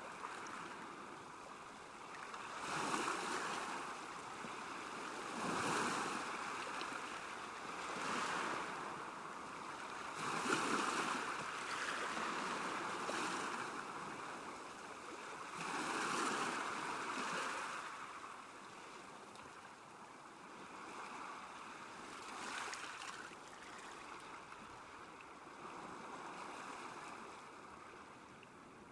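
Small waves lapping on a lake shore, washing in and easing off in uneven swells every two to three seconds.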